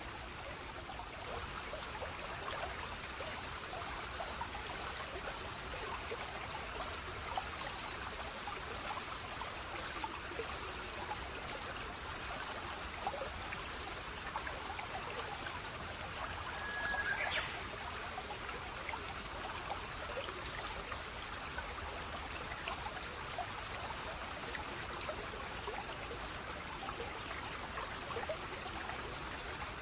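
A small stream trickling steadily, full of little drips and splashes. A short whistle, held and then rising, sounds once a little over halfway through.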